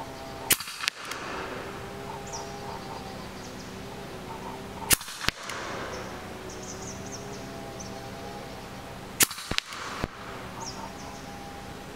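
EDgun Leshiy 2 semi-automatic PCP air rifle firing three shots about four seconds apart, each sharp crack followed within a second by a fainter click or knock.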